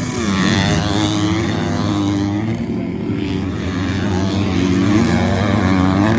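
250cc four-stroke motocross bikes running on the track, engines revving up and down repeatedly as the riders work the throttle and shift, several bikes overlapping.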